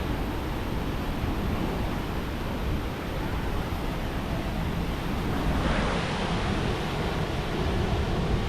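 Steady rushing noise of creek water running over rocks, with wind buffeting the microphone.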